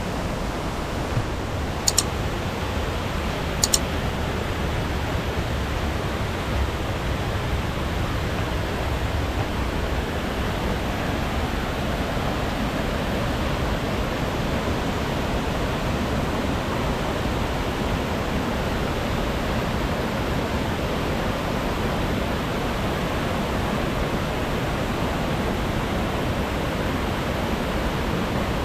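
Steady rushing of a rainforest waterfall, the Anagimala Ella falls, a dense even roar of falling water with no letup. A few brief high clicks sound in the first four seconds.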